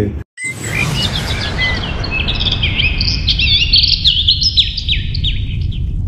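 Many birds chirping and twittering in quick, high, swooping calls over a low rushing noise. The calls thicken about two seconds in and fade out near the end.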